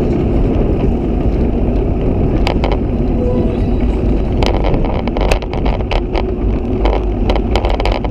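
Steady low rumble of wind on the microphone and road noise from a moving bicycle, with a run of sharp clicks or rattles from about halfway through.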